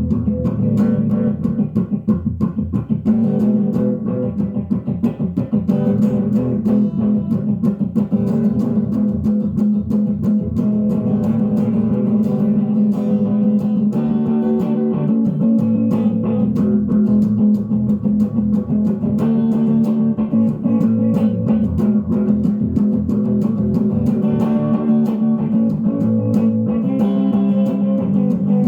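Electric guitar picked steadily through the restored Ecco-Fonic tube tape echo, the notes sustained and layered by the echo.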